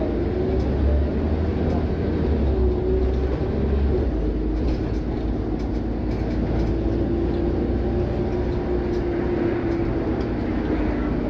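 A Scania OmniCity CN94UB city bus under way, heard inside the cabin: the engine and drivetrain run with a low rumble and a steady whining tone that wavers slightly in pitch. The rumble is stronger for a few seconds early in the stretch.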